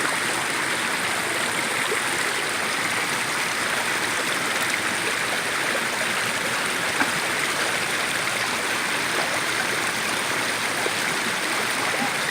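Rain-swollen creek running full with storm runoff, a steady rush of water. It is a normally dry channel carrying water drained from the fields above after two days of heavy rain.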